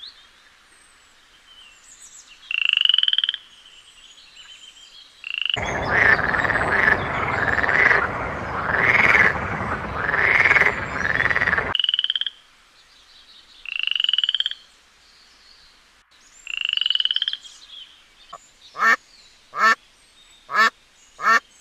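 Frogs calling: short pulsed trills, each rising slightly in pitch, repeat every few seconds, with a louder, denser stretch of rhythmic croaking through the middle. Near the end comes a quick run of short calls from a duck.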